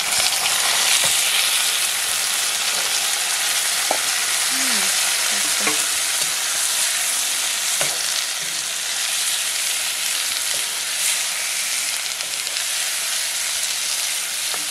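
Frog pieces dropped into hot oil in a wok sizzle loudly as they hit the pan, then keep frying with a steady hiss while a spatula stirs them, scraping against the pan now and then.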